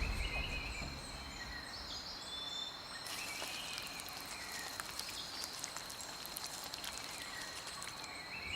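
Rainforest ambience: a steady high-pitched insect drone, with a few short bird chirps in the first couple of seconds and again near the end. From about three seconds in there are many faint, scattered clicks.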